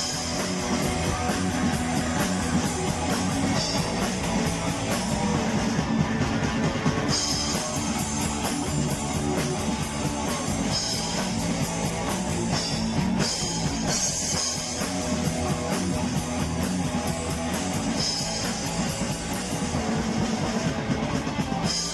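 Live rock band playing an instrumental passage with electric guitar and drum kit.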